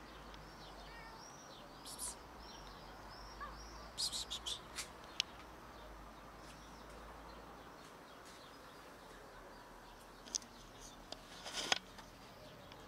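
Faint, high bird chirping: a quick series of short arched chirps during the first four seconds. A cluster of sharp clicks and taps comes about four to five seconds in, and a few more near the end.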